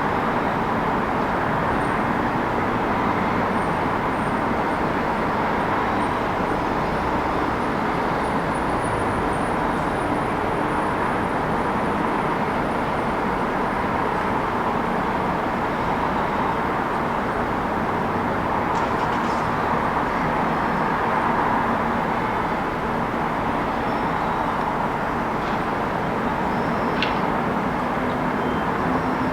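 City street ambience: a steady wash of road traffic noise, with faint engine hums and a couple of brief high ticks.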